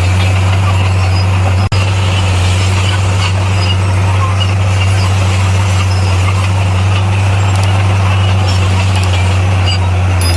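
Heavy earthmoving machine's diesel engine running steadily at work, a loud, even low drone with a brief dropout about a second and a half in.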